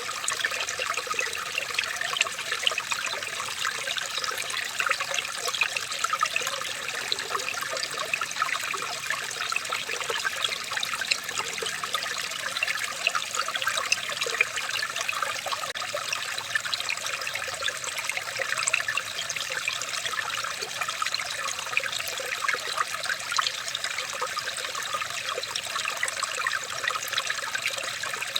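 Small stream of water trickling steadily, with many small splashes and bubbles.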